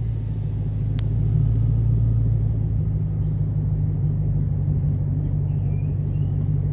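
2008 Ford Mustang GT's 4.6-litre V8 idling steadily through a Magnaflow catted H-pipe and Pypes M80 mid-muffler cat-back exhaust, a low even rumble. A single sharp click about a second in.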